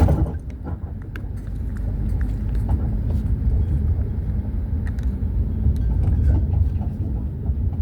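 Road noise inside a moving car: a steady low rumble from the tyres and engine, with a few faint ticks.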